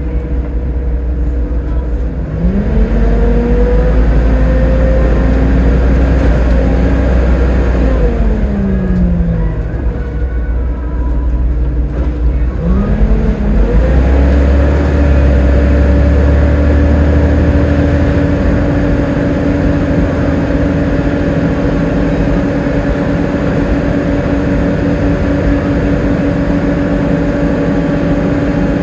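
Volvo B7TL double-decker bus engine pulling away: its pitch rises over a couple of seconds and holds, then drops about eight seconds in. It climbs again and settles into a steady, loud drone that lasts to the end.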